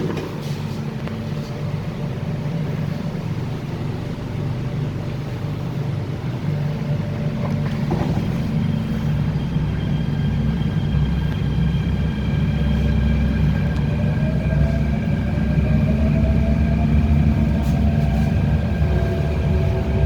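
MTR K-Train (Hyundai Rotem electric multiple unit) running with a steady low hum. About halfway through, a whine from the traction motors comes in and rises in pitch as the train gathers speed, then levels off near the end.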